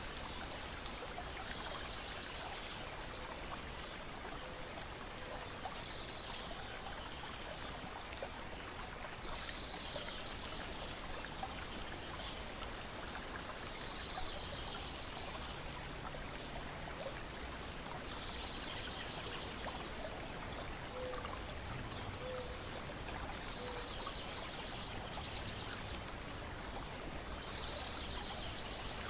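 Steady lapping and trickling of lake water against a shore, with a bird's short high trill repeating about every four seconds.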